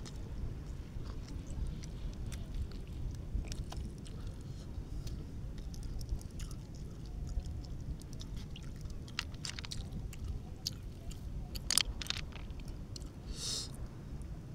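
Close-up chewing and mouth noises of a man eating raw fish by hand: scattered small wet clicks, with a sharper cluster of them near 12 seconds and a short hiss soon after, over a steady low rumble.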